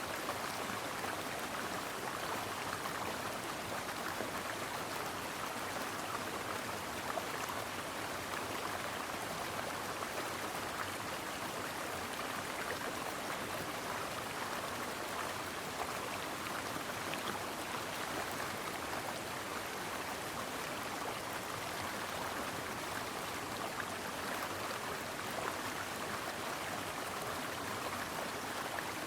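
Stream water flowing steadily, an even unbroken rush.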